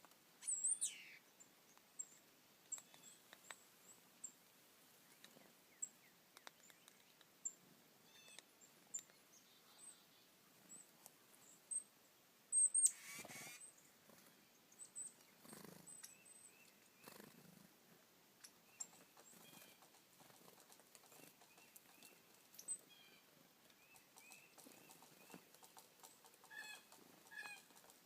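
Wild birds chirping and calling faintly, with short high chirps throughout, a repeated two-note call in the second half and a burst of quick notes near the end. A few brief louder noises come in between, the loudest about halfway through.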